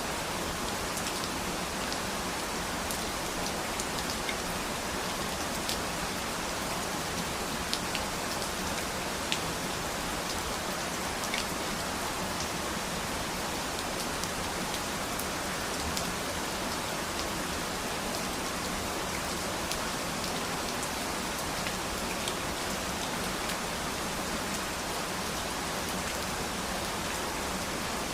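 Steady rain falling, a continuous even hiss with scattered sharp ticks of individual drops hitting a surface.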